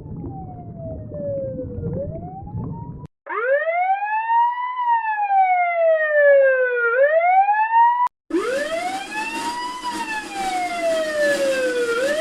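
Three different police siren recordings, one after another, with abrupt cuts between them. Each is a slow wail that rises, then falls in pitch. The first and last play over vehicle rumble, and the middle one plays clean.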